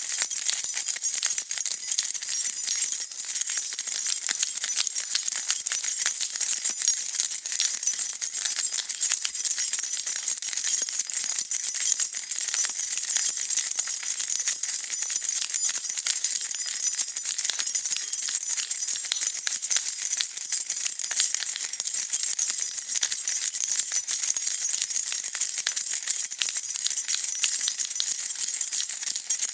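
A bunch of keys jingling continuously as they are shaken, a dense, steady high-pitched metallic rattle of keys knocking together on a key ring.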